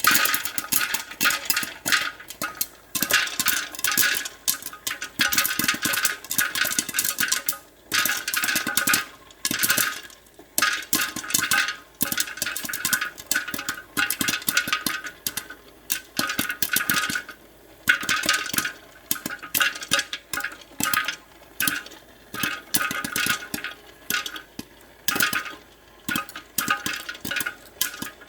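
Popcorn popping: rapid, dense runs of sharp pops that come in bursts, with brief lulls between them.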